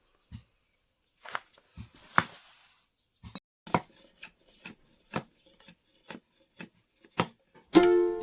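A blade chopping and trimming bamboo for a knife handle: about a dozen sharp, dry knocks at an uneven pace, the loudest about two seconds in. Plucked-string music comes in just before the end.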